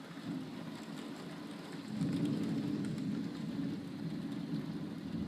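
Heavy rain falling in a thunderstorm, with a low rumble that swells about two seconds in and carries on.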